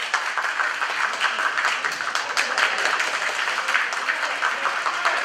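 Crowd clapping steadily, a dense run of many hand claps.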